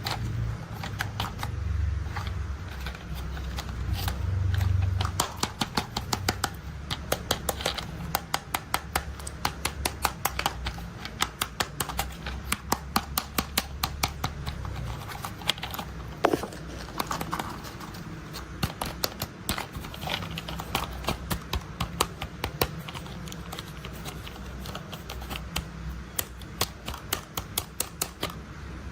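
Toy construction vehicles being handled: a low rolling rumble for the first five seconds or so, then many quick, irregular clicks and taps.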